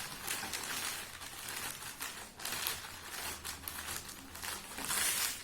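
Newspaper being crumpled and twisted by hand, a run of papery crinkling rustles, loudest near the end.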